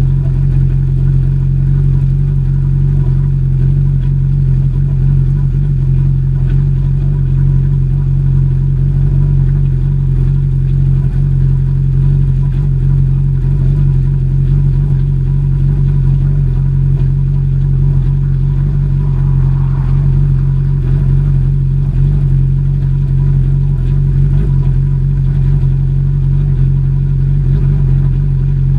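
An engine idling steadily: an even, unbroken low hum with no revving.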